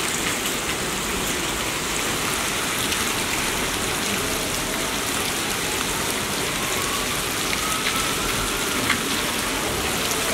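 Heavy rain falling steadily and splashing on wet balcony tiles, with scattered sharper drip hits.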